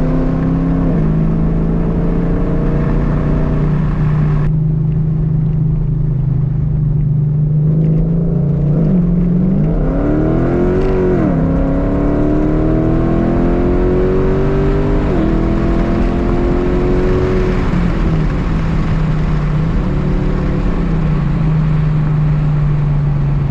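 Modified Dodge Charger R/T's 5.7-litre Hemi V8, with a Comp Cams Stage 2 cam, long-tube headers and Borla mufflers, driven hard on a road course. The engine speed holds, dips, and then climbs sharply about ten seconds in as the car accelerates out of a turn. It keeps pulling higher for a few seconds, then drops back toward the end.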